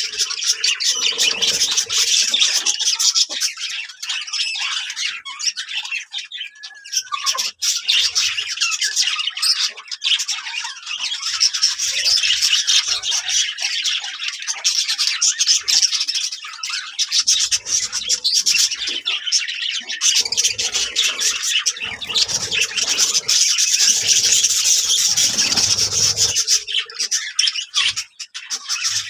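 A flock of budgerigars chattering together, many birds calling at once in a dense, unbroken stream of quick high notes.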